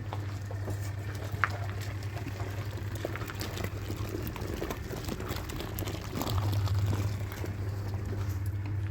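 Washing machine running with water sloshing in its tub over a steady low motor hum; the hum grows a little louder about six seconds in.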